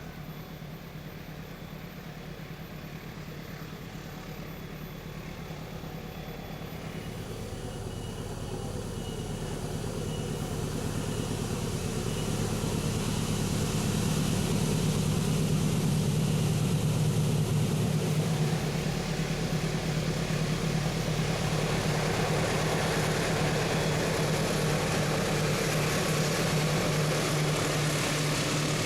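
CC 206 diesel-electric locomotive's engine running with a steady low hum, growing louder over about the first fourteen seconds as it approaches and then holding steady, with a broad hiss of the train's running noise rising along with it.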